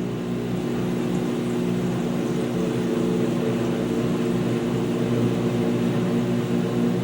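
2006 GE Profile top-loading washer spinning its tub in the rinse spin, a steady motor hum with several held tones. The spin is not yet at full speed.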